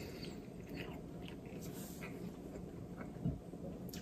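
Faint close-up chewing of a mouthful of fettuccine, with small scattered wet mouth clicks. A brief low thump about three seconds in.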